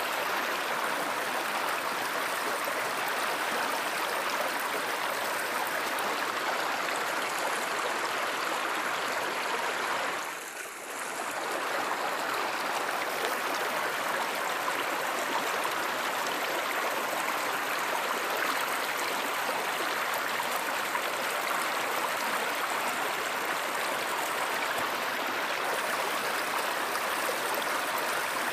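Stream water flowing and rushing steadily, with a brief dip in level about ten seconds in.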